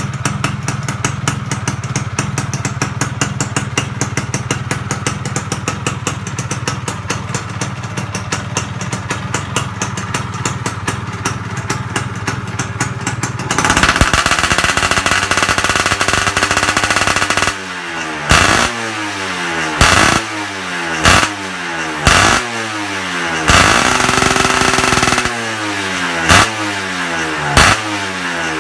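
Yamaha F1ZR two-stroke motorcycle engine breathing through an aftermarket 38 mm exhaust header. It idles with a fast, steady pulse for about the first half, then is held at higher revs for a few seconds. After that come a series of sharp throttle blips, each falling back to idle, with one longer rev of about two seconds among them.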